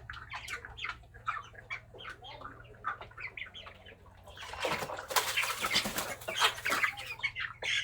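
Broiler chickens giving short soft calls, then about four seconds in a loud flurry of wing flapping and splashing as a heat-stressed broiler is dipped in cold water to cool it.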